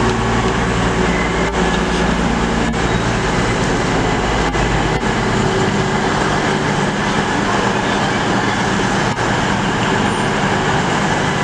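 Train running, a steady loud rumble with several low engine tones and a few faint clicks.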